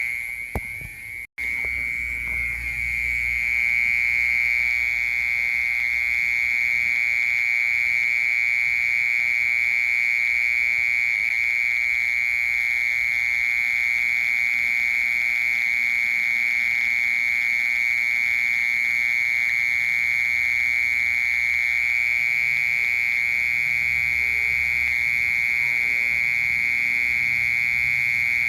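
Mole cricket singing: a loud, steady, unbroken trill at one fairly low pitch, with a brief drop-out about a second in.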